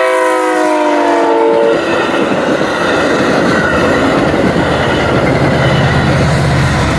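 Metra commuter train's horn sounding a loud multi-note chord that slides down in pitch as the train goes past, stopping under two seconds in. Then comes the steady loud rush of the train running by on the rails, with a deep low hum joining about five seconds in.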